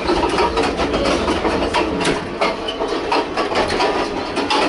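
Passenger train in motion heard from inside the carriage: a steady rumble with dense rattling and clattering.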